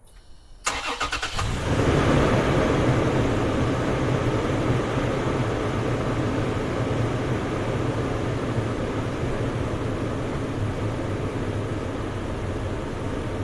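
A Toyota 4Runner's engine is cranked by the starter for about a second, catches, and runs at a steady idle that is a little louder at first and then settles slightly.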